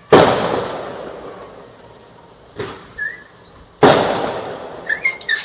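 Fireworks going off: a loud bang right at the start echoes away over a couple of seconds, two fainter pops follow around the middle, and another loud bang comes near the end.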